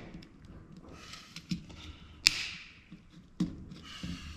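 Parts of a dome security camera's motor mount being worked at by hand while trying to pull them out: scattered small clicks and knocks, the loudest a sharp click about halfway through, followed by a short scrape.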